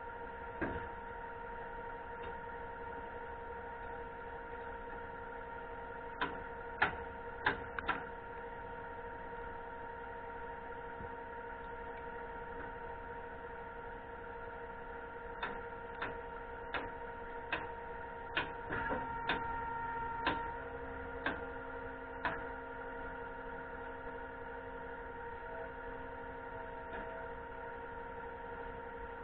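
Steady machine hum with a few fixed tones, broken by irregular sharp clacks, in a cluster about six to eight seconds in and a longer run in the middle.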